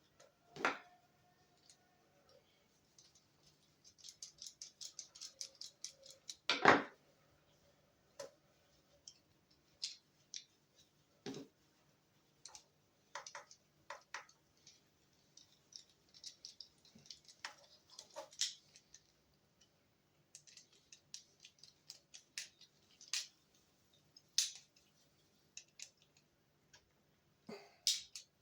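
Small clicks, taps and scrapes of hand work on small plastic and metal instrument-cluster parts while the odometer motor is being swapped. There is a quick run of tiny clicks about four seconds in, then a sharper knock just after, with scattered single clicks for the rest.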